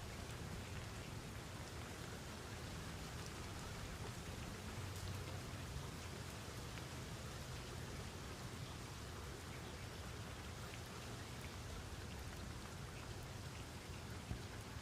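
Steady rain falling, with a low rumble underneath and faint scattered drop ticks.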